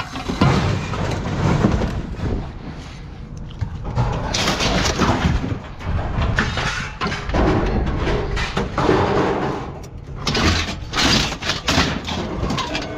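Irregular clattering and knocking of scrap items being handled and tossed onto piles while sorting.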